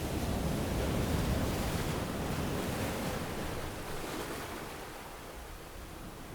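Ocean surf washing onto a sandy beach: a wave rushes in over the first few seconds, then eases off as it draws back.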